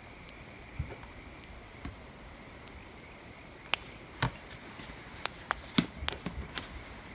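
Wood fire crackling: irregular sharp pops, sparse at first and coming thick and fast in the second half.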